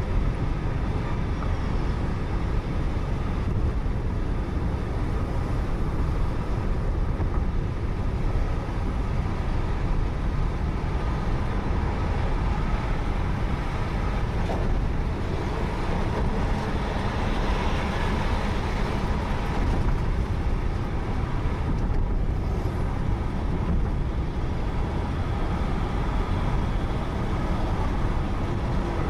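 Steady road noise from a moving car as picked up by a dashcam: engine and tyre rumble, with a slight swell partway through.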